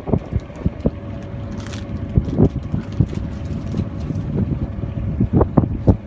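Wind buffeting the microphone aboard a sailboat under way: a loud, irregular low rumble with quick gusty thumps.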